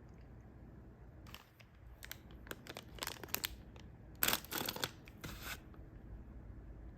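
Snack packaging being handled, crinkling and tearing in a series of short, sharp rustles over a few seconds, loudest about two-thirds of the way through.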